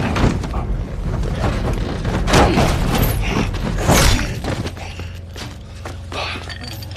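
Film soundtrack of heavy thumps and crashes over a low rumbling music score, the loudest hits about two and a half and four seconds in, easing off near the end.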